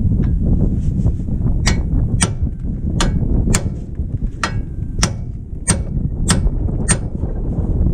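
A series of about ten sharp taps, evenly spaced at roughly two a second, over a steady low rumble.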